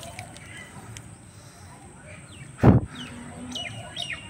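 A single loud thump about two-thirds of the way in, followed by small birds chirping with short, quick, falling calls in the last second or so.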